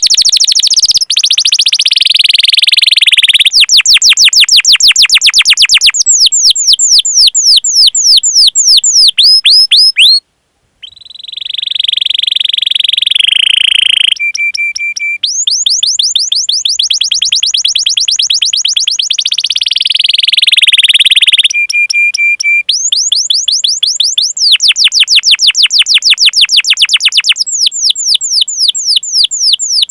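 Domestic canary singing a long song of rapid, repeated down-slurred chirps and rolled trills, with a brief break about a third of the way through and two short held whistles near the middle and three-quarters through.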